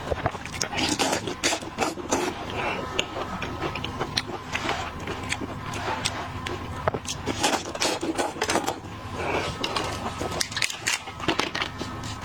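Close-up eating sounds of shellfish: irregular crackling and clicking as shells are cracked and peeled and the meat is chewed.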